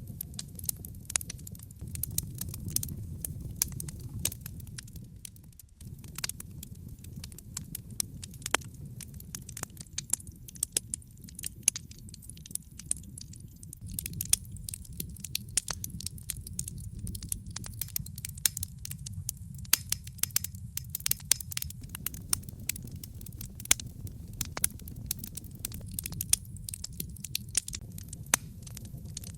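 Wood logs burning in a fireplace, crackling with frequent sharp pops and snaps over a low, steady rumble of flame.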